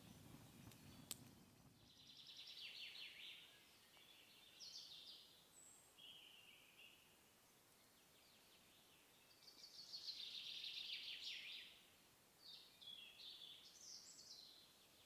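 Songbirds singing faintly: a series of short trilled phrases, the longest about ten seconds in. A low rumble and a single sharp click come in the first two seconds.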